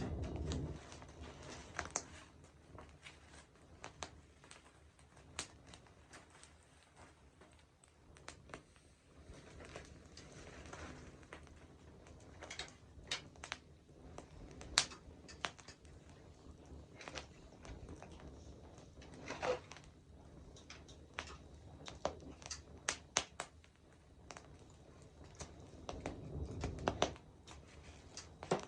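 Wood campfire burning, crackling with irregular sharp pops and snaps over a soft hiss of flame. A low rush swells briefly near the end.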